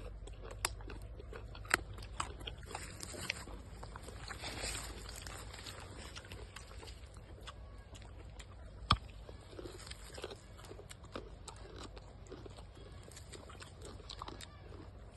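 Crunching and chewing of food, with scattered sharp clicks and bites; the loudest snap comes about nine seconds in.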